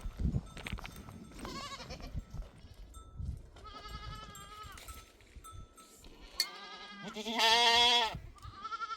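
Goats bleating, about five quavering calls in turn, the loudest and longest one about seven seconds in.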